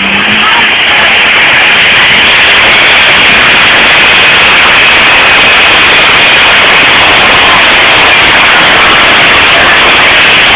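Pulling tractor's engine at full throttle under load, so loud that it overloads the phone microphone into a steady, distorted roar with a faint high whine held above it.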